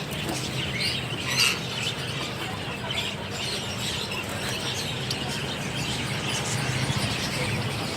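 Many small caged birds chirping and squeaking over one another, over a steady low background hum.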